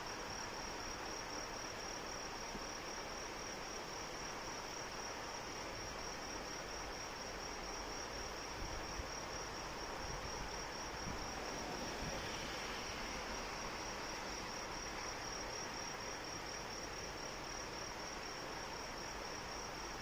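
A cricket's continuous high-pitched, rapidly pulsing trill over the steady hiss of falling rain.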